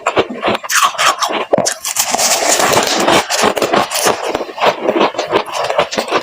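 Freezer frost crunching close to the microphone: a loud, dense run of crisp, irregular crackles.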